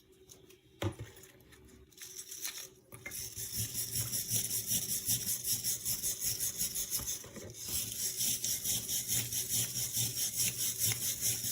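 Rapid back-and-forth abrasive rubbing strokes by hand on the old axe, about three or four strokes a second, starting about three seconds in after a single knock. The strokes pause briefly, resume, and cut off suddenly.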